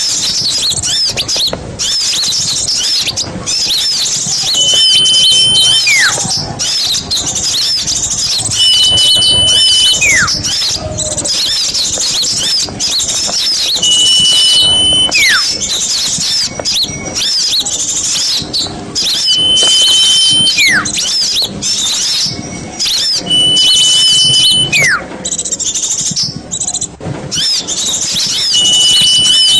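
Small-bird lure (pikat) recording: a dense chatter of many small birds chirping. Every four to five seconds a steady high whistle lasts about a second, then a quick falling whistle follows.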